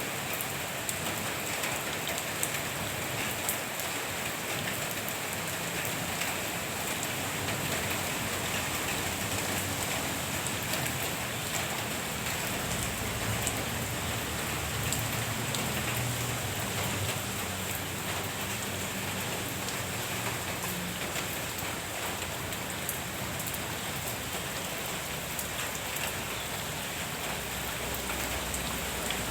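Steady rain falling on the leaves and ground of a garden, with scattered close drips.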